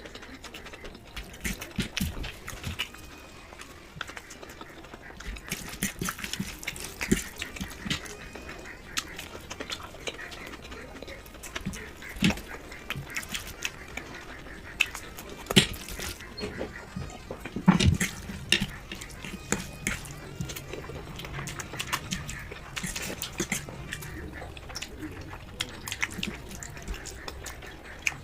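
Close-miked eating: irregular chewing, mouth smacks and wet food sounds with scattered clicks of cutlery, and one louder knock about eighteen seconds in.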